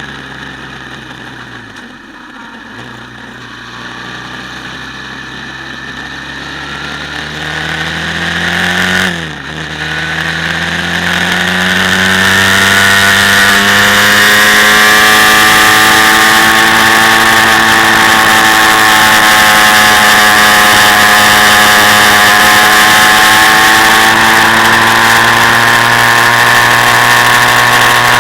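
Quad bike engine heard onboard: running at low revs for the first few seconds, revving up to a peak about nine seconds in and dropping sharply, as at a gear change, then climbing and holding at high, fairly steady revs under load for the rest of the ride.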